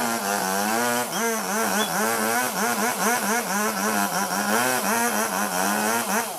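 Robin Plus chainsaw running at high revs, its engine speed wavering quickly up and down over and over. Near the end the throttle is let off and the pitch falls away.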